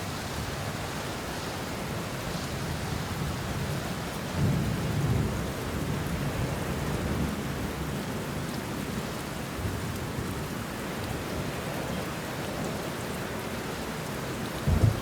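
Steady rain falling on banana leaves and bushes, with a low thunder rumble swelling about four seconds in and a sharper low clap of thunder near the end.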